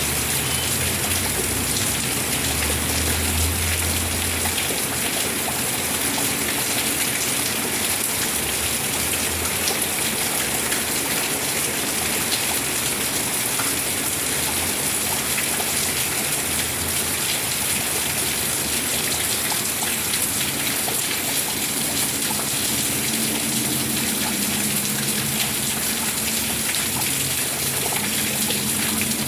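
Rain falling steadily, an even hiss of water with some gushing. A faint low hum comes and goes underneath.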